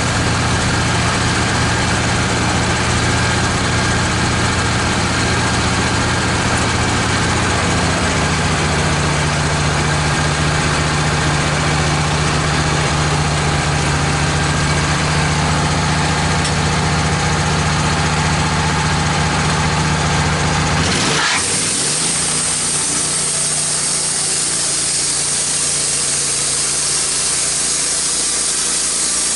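Wood-Mizer LT15 bandsaw mill's engine running steadily, its note shifting about a third of the way in. About two-thirds of the way through the engine sound gives way abruptly to a steady hiss.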